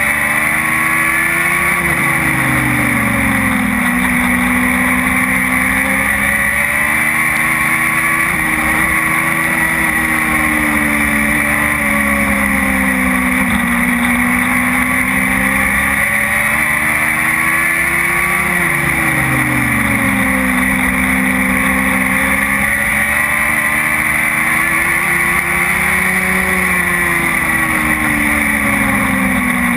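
Dwarf race car's engine at racing speed, its pitch climbing as it accelerates and then dropping as it lifts off, over and over about every eight seconds, under a steady rushing hiss of wind and tyre noise.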